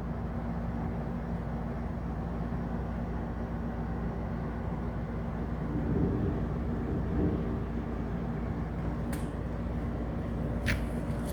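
Heavy rain pouring down, a steady hiss over a low hum, with a couple of faint clicks near the end.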